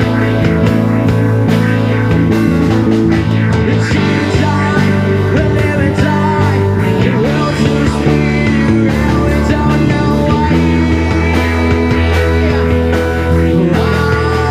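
Live rock band playing a song: electric guitar over bass and drums, loud and steady.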